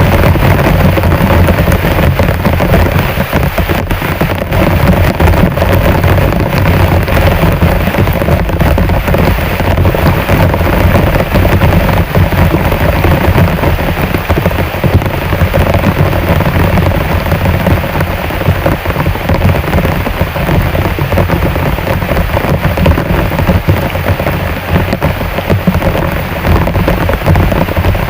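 Heavy rain falling steadily: a dense, unbroken hiss full of small drop impacts.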